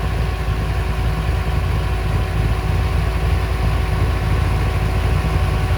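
Ford 427 side-oiler FE V8 idling steadily, a low even rumble with a thin steady whine over it.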